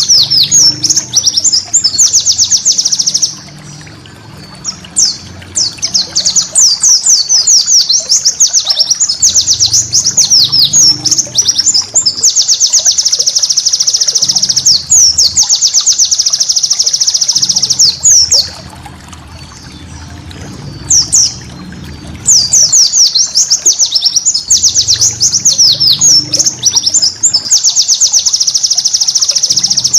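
White-eye (pleci) singing long, rapid bouts of high, sweeping, chattering notes. The song breaks off briefly about four seconds in and again around twenty seconds in.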